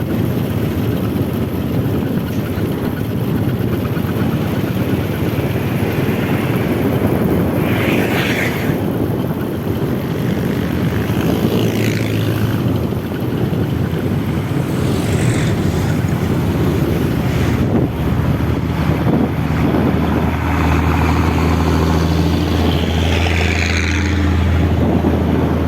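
Road traffic dominated by heavy truck engines running under load, a low steady drone that grows stronger in the second half, with a few short higher-pitched sounds from passing vehicles.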